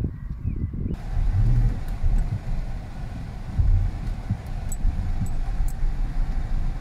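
2008 Dodge Charger Pursuit's 5.7-litre V8 running as the car is driven, a steady low rumble heard from inside the cabin for most of it.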